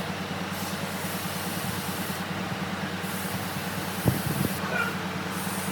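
Steady mechanical hum with a hiss, with a sharp knock about four seconds in.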